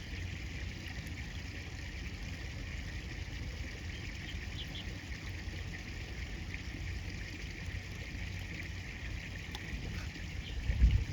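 River water running steadily, with faint short high chirps now and then and a louder low bump near the end.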